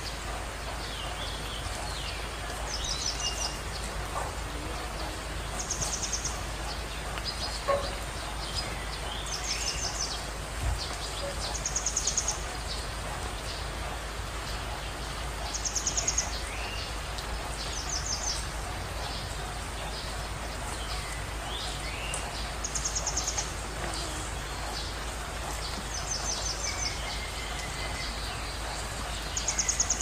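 Birds calling over a steady outdoor hiss: short, high, rapid trills repeated every two to three seconds, with a few lower sliding whistles between them.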